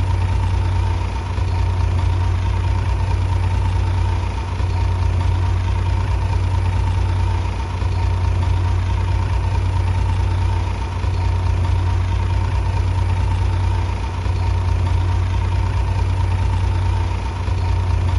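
Bulldozer diesel engine running steadily with a deep, even drone and a faint steady whine, dipping slightly in loudness about every three seconds.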